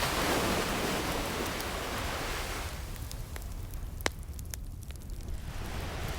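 An ocean wave washes in at the start and recedes over about three seconds, with a fireplace crackling throughout and one sharp pop about four seconds in; the wash builds again near the end.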